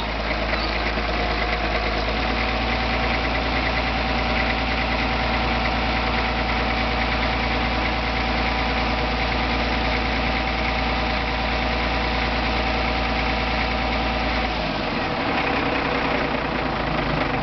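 Diesel engine of a Cat 977K track loader idling steadily, its low note dropping about 14.5 seconds in as it is brought down ahead of shutdown.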